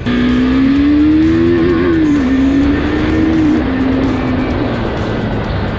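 Husqvarna Svartpilen 401's single-cylinder engine accelerating hard under way: the note climbs, drops at a gear change about two seconds in, climbs again, then drops and settles.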